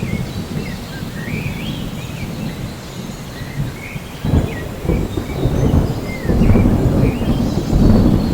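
Rainforest ambience: a steady low rumble of thunder with rain, swelling about four seconds in and louder again near the end, while birds chirp in short notes that rise and fall.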